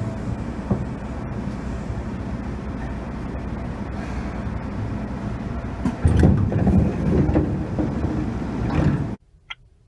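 Seibu Railway 2000 series train running, heard from inside the car as a steady rumble with louder low rumbling and clatter from about six seconds in. This is the train in normal condition, without the abnormal noise. The sound cuts off suddenly about nine seconds in, leaving a few faint ticks.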